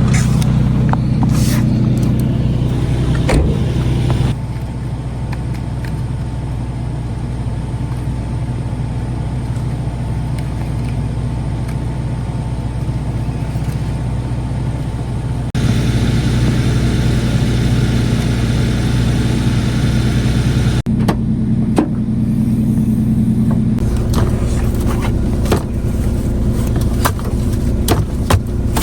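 A motor vehicle's engine running steadily while driving, its sound changing abruptly several times, with a few brief knocks.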